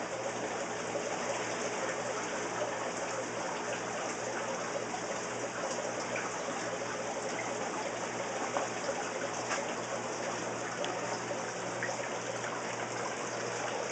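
Steady rush of running, trickling water, as from the filtration and overflow of a store's rows of aquarium tanks, with a low steady hum underneath and a few faint ticks.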